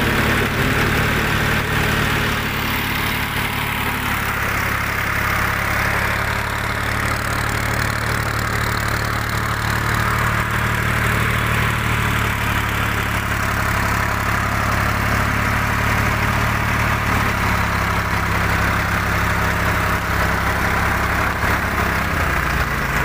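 A Ford 4560 tractor's 60 hp diesel engine idling steadily, with a slight change in engine note near the end.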